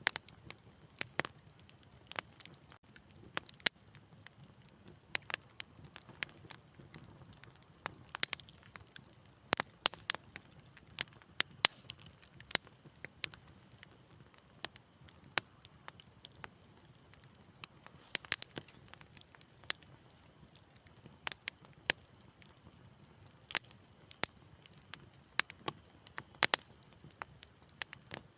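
Wood fire crackling: irregular sharp pops and snaps, several a second, over a faint low hiss of burning.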